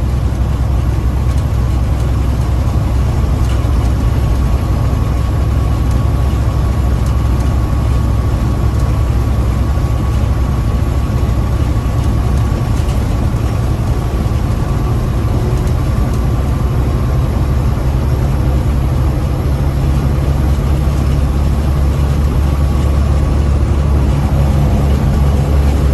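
Big rig truck's diesel engine and road noise heard from inside the cab: a steady deep drone, with a faint thin whine above it, that holds even throughout.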